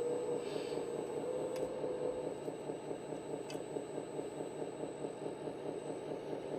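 Scale RC model tractor running: a steady whine over an even, quick engine-like chugging beat.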